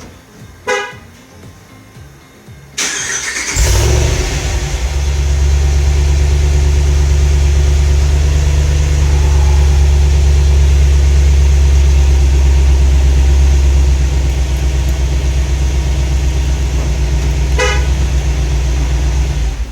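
A Ram Power Wagon's 6.4-litre HEMI V8, still on its stock exhaust, cranks about three seconds in, catches, and settles into a steady idle. The idle eases slightly partway through and the engine shuts off at the very end. Short horn chirps sound near the start and again near the end.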